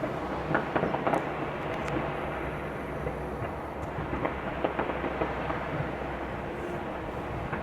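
Distant fireworks display: a continuous rumble of bangs and crackling, with many small sharp pops.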